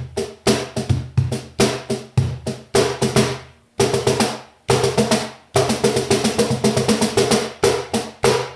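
LA ROSA Studio cajon being played by hand in a quick groove of deep bass strokes and sharp slaps with the snare wires buzzing, with short breaks near the middle, ending on a final stroke near the end.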